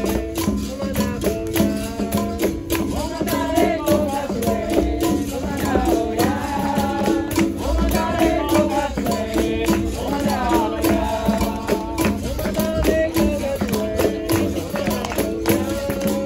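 Live capoeira roda music: a berimbau sounding on two alternating notes, a pandeiro's jingles and slaps keeping a dense rhythm, and voices singing over them.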